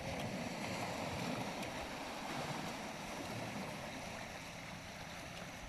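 Sea waves washing on a beach: a steady rushing noise that swells slightly in the first couple of seconds, then eases off.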